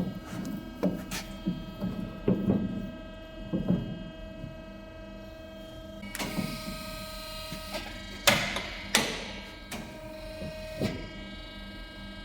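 Steel bar stock being handled and set up in a metal-cutting saw: a series of irregular metal clunks and knocks, the loudest two about 8 and 9 seconds in, over a steady machine hum.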